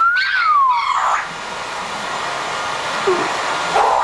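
Pet parrot whistling: one whistle that rises and then falls in pitch near the start, followed by a couple of short calls later, over a steady hiss.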